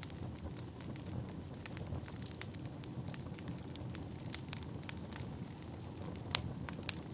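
Firewood burning, crackling steadily over a low rumble with scattered sharp pops; the loudest pop comes about six seconds in, with another shortly before the end.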